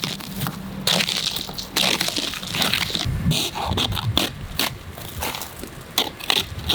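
Hard ice being scraped and chipped off an iced-over car: a run of irregular, rasping crunches and scrapes.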